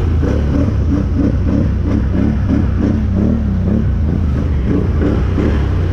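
Can-Am 1000 side-by-side's V-twin engine running steadily with a deep rumble, heard from on board, with a pitch that wavers up and down as the throttle changes.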